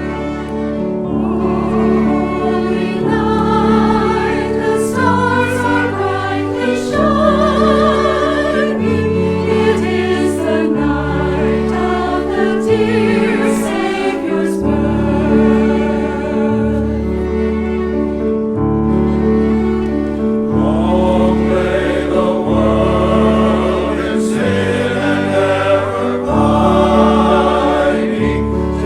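Church choir singing with orchestral accompaniment, sustained bass notes changing every second or two beneath the voices.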